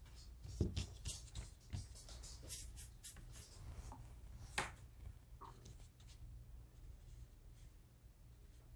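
Soft, scratchy strokes of a paintbrush on watercolour paper, with a few light taps, the sharpest about half a second in and again near the middle.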